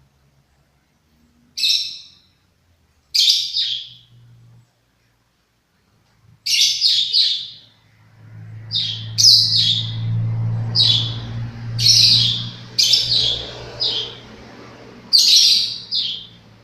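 Lovebird giving short, shrill chirps in clusters, a few spaced out at first and then coming about once a second in the second half. A low steady hum runs underneath from about halfway.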